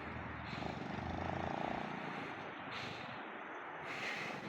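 Small engine of a homemade motorcycle running, a steady engine note that is strongest in the first two seconds and then eases off.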